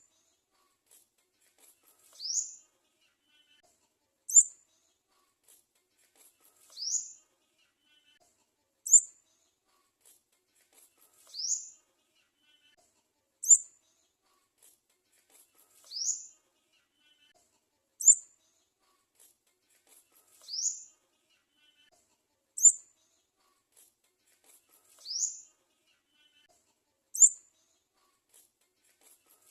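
Sunbird chick calling to beg for food: a short, sharp high chirp, then about two seconds later a falling whistle. The pair repeats at an even pace about every four and a half seconds, seven times over, and the sharp chirps are the loudest.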